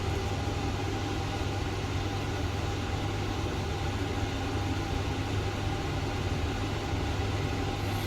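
RY 500B HSS saw blade grinder running at idle, a steady low machine hum with a faint whine above it and no grinding contact.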